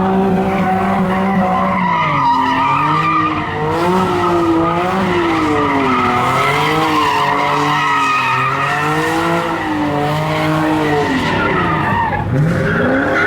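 A car drifting, its tyres skidding while the engine revs rise and fall about once a second under the throttle. Near the end the revs drop, then climb again quickly.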